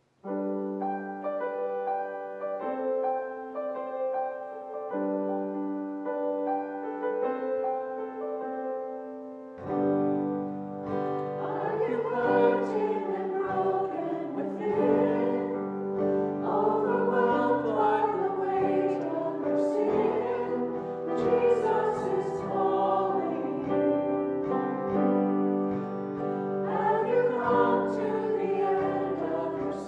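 Church choir singing a hymn with keyboard accompaniment: held instrumental chords begin suddenly, and the voices come in about ten seconds later, fuller and louder.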